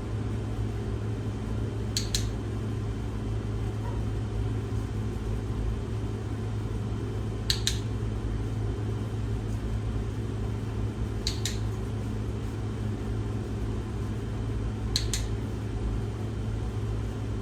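Steady low hum, with four sharp double clicks spread through it, the last three about four seconds apart.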